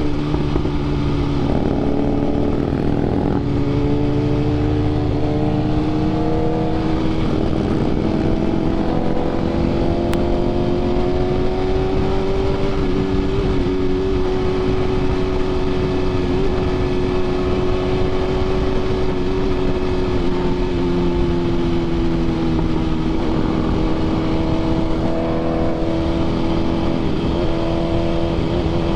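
BMW S1000RR inline-four with an aftermarket SC Projects CRT exhaust, running at cruising speed under steady wind rush. Its pitch climbs slowly, holds, eases off in the second half, and picks up again near the end.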